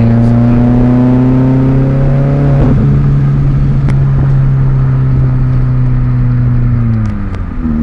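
Straight-piped 2001 Volkswagen GTI 1.8T turbocharged four-cylinder under way: a loud, steady exhaust note whose pitch climbs gently over the first couple of seconds, holds, then falls away near the end as the revs drop.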